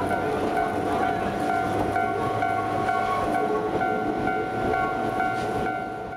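Two-car Ichibata DeHaNi 50 electric train passing, a steady rumble with a constant ringing tone and a regularly pulsing tone over it. The sound cuts off near the end.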